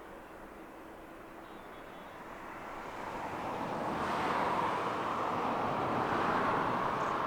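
Jet airliner engines growing louder as the aircraft approaches, swelling over about two seconds to a steady loud run.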